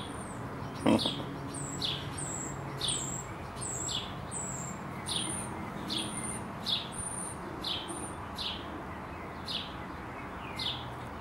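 A small bird chirping over and over, short high notes coming about once or twice a second, with one brief louder sound about a second in.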